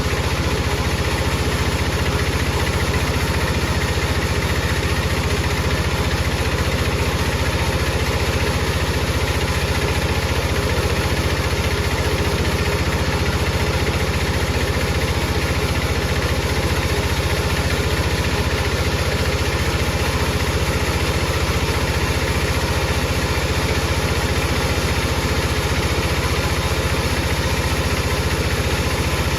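Power saw motor running steadily, a constant mechanical hum that holds an even level throughout.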